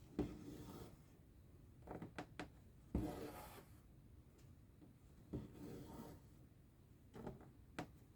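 Cross-stitch needle popping through the fabric and thread drawn through after it with a short rasp, repeated every second or so; faint.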